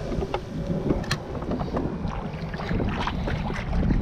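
Wind buffeting the microphone, a heavy low rumble, with several sharp clicks and knocks from handling gear on the kayak; the sharpest comes about a second in.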